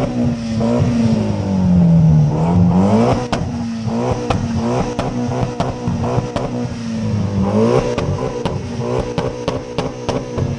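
Mitsubishi Lancer Evolution's turbocharged inline-four being revved repeatedly on the spot, the engine note climbing, holding and dropping back several times. From about three seconds in, a rapid string of sharp exhaust cracks and pops runs along with the revs.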